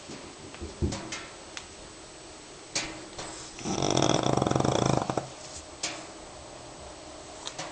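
French bulldog snoring: one loud snore about halfway through, lasting about a second and a half, with a few faint clicks before and after it.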